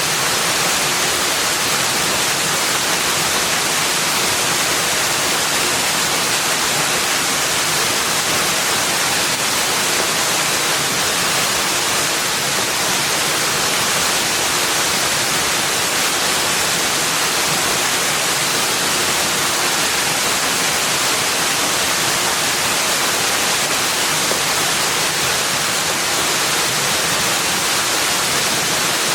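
Steady, unbroken hiss of water, like a waterfall or stream, with no separate events.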